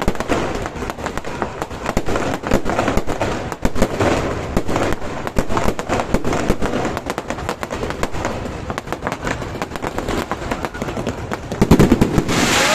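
Aerial fireworks going off in a fast, irregular string of bangs and crackles, with a louder cluster of reports near the end.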